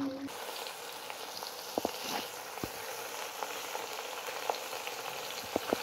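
Chopped vegetables sizzling in a metal cooking pot, a steady hiss with a few light clicks as ingredients are pressed in by hand.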